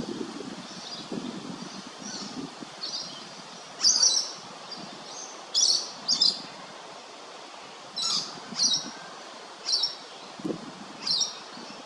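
Lewin's honeyeater calling: short, sharp, high notes repeated at irregular intervals of about half a second to a second and a half, some in quick pairs.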